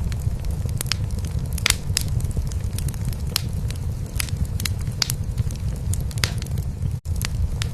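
A cat purring steadily, a low pulsing drone, over a wood fire crackling in a fireplace with irregular sharp pops. The sound cuts out for an instant near the end.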